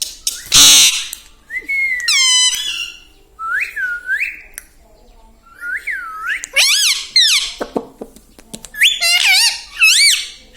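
Pet Indian ringneck parrot giving a series of shrill whistled calls that swoop up and down in pitch, several in quick succession, after a loud harsh burst about half a second in.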